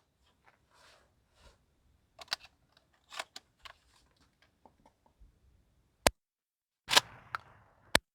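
A 20-gauge shotgun being handled, with small clicks and rattles of loading and working the action. About seven seconds in it fires one loud shot with an echoing tail, with a sharp click just before and just after it.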